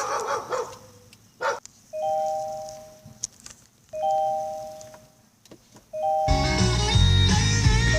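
A car's two-note chime dings three times, about two seconds apart, each ding fading out. About six seconds in, music from the car radio comes on loud.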